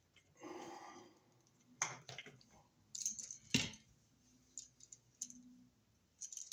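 Scattered clicks and light rustling from hands and tools handling a wall receptacle and its wires, with one sharper click about three and a half seconds in.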